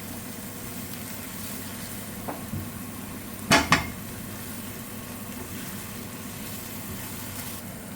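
Chicken, onion and mushroom pie filling sizzling in a frying pan while it is stirred, with two quick knocks of a utensil against the pan about three and a half seconds in.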